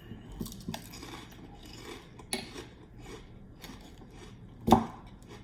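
Light clatter and scraping of dishes, cutlery and food being handled at a table, with scattered small clicks and one louder knock a little before the end.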